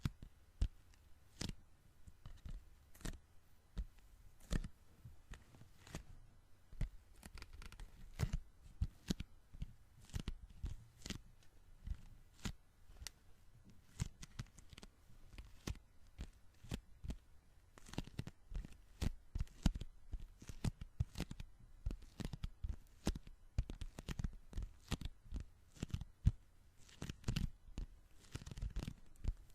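Sticky hands pressed together and pulled apart close to the microphone, the tacky skin peeling off in irregular sharp crackling snaps, several a second.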